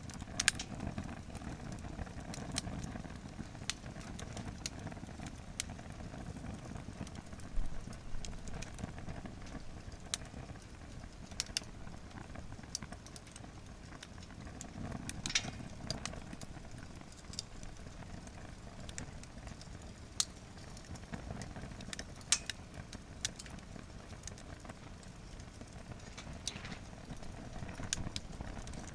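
Wood fire in a fire-pit stand, overloaded with firewood and burning hard: a steady low rush of flame with irregular crackles and pops from the burning logs, and a handful of sharper snaps.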